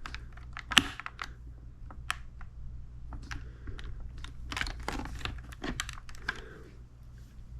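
Irregular clicks and taps of fingers pressing a flexible rubber adhesive camera mount down onto a hard plastic motorcycle helmet shell, with light rustling; one sharper click about a second in.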